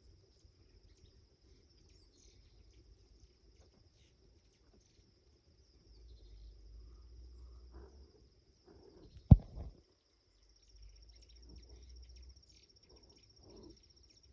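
Steady high-pitched chirring of insects such as crickets, with faint low rumbling at times and one sharp knock a little past the middle.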